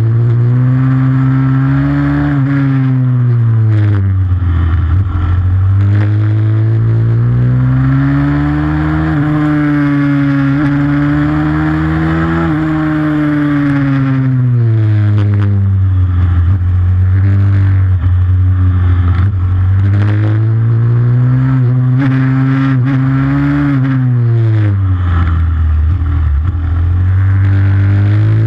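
Pit bike's single-cylinder four-stroke engine under race riding, its pitch climbing and falling again and again as it accelerates and slows, with a few brief knocks and clatters.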